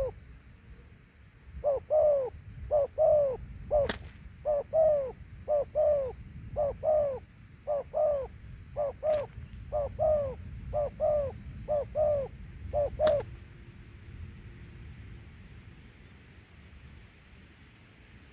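Spotted dove cooing: a quick run of paired, arching notes repeated over and over, stopping about 13 seconds in. Three sharp clicks come through it, at about 4, 9 and 13 seconds.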